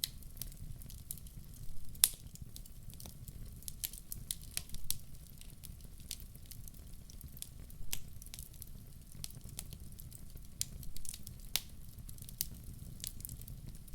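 Wood fire crackling in a fireplace: scattered sharp pops and snaps over a low steady rumble, with a louder pop about two seconds in and another a little past the middle.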